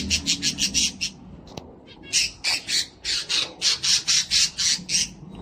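Cockatiel giving quick runs of harsh, squawking calls, a burst at the start and a longer run after a pause of about a second.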